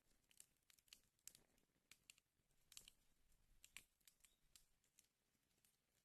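Wood fire in a fireplace crackling faintly, with irregular sharp pops and snaps several times a second.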